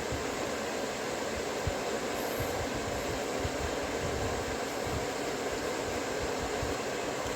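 A chisel being sharpened: a steady grinding, rasping noise with small irregular low knocks beneath it.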